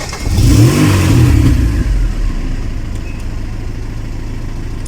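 VAZ 2104's engine revved once, its pitch rising and falling within the first two seconds, then settling into a steady idle.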